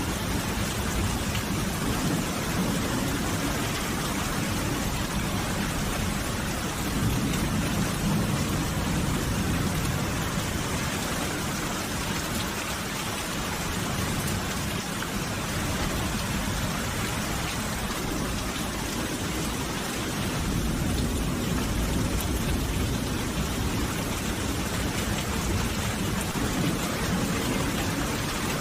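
Steady, even rain, with a low rumble underneath that swells twice.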